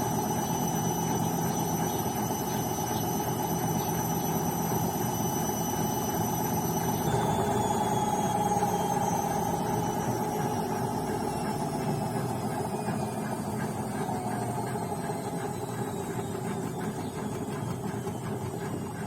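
BEKO washing machine's drum spinning with a high motor whine over a steady rumble; about seven seconds in, the whine's pitch begins to fall slowly and the sound eases as the drum slows down.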